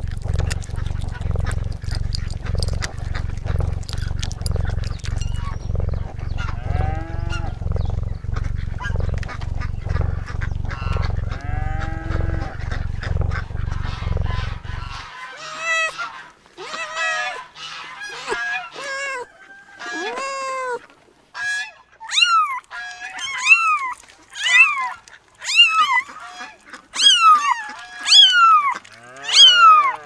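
Domestic cat sounds: a steady, pulsing low purr with a few meows over it. About halfway through the purr cuts off and a cat meows over and over in short, high calls, louder toward the end.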